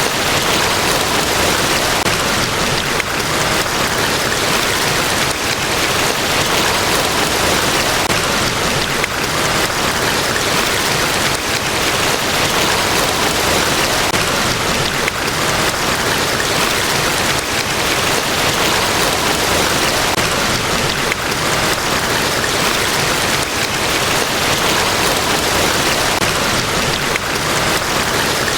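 Niagara Falls, a large waterfall: a loud, steady, unbroken rush of falling water.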